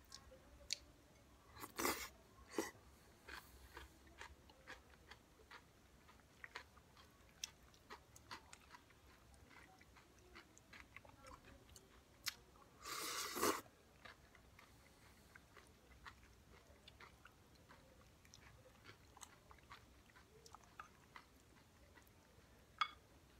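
Close-up chewing and crunching of shopska salad: diced cucumber, tomato, onion and sirene cheese, with many small, sharp, wet clicks. A louder burst of noise, less than a second long, comes about thirteen seconds in.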